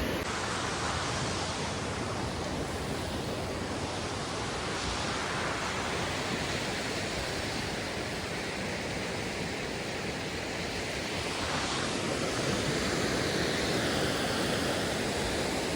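Atlantic surf washing onto a sandy beach: a steady rush of breaking waves that swells and eases slowly, a little louder near the end.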